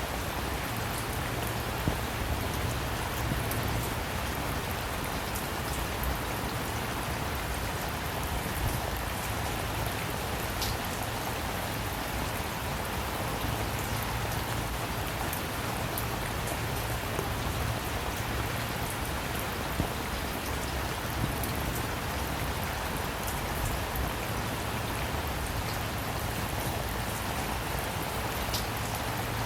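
Steady rain falling, an even hiss with scattered sharp drop ticks on a hard surface and a low steady rumble underneath.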